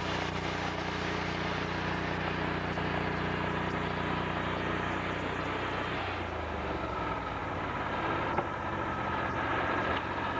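An engine running steadily; about six seconds in its note drops and turns rougher, as if it is throttled down.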